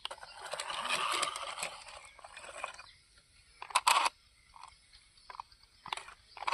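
Small toy RC monster truck driving over rough dirt ground, its tyres crunching and scraping for about three seconds. A loud knock follows about four seconds in, then scattered small clicks and bumps.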